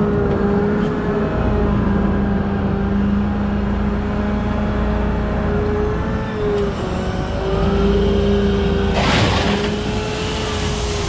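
Heavy diesel machine running with a steady whine, which dips and shifts in pitch partway through. A short burst of hiss comes about nine seconds in.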